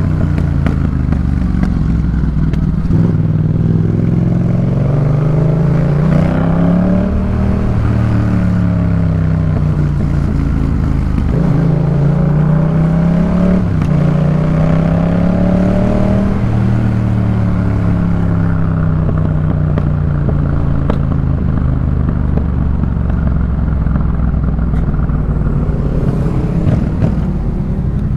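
Yamaha MT-07 parallel-twin engine on a Jeskap K4 full aftermarket exhaust while riding. The revs climb and drop several times through the first half as it pulls through the gears, then run fairly steady before climbing again near the end.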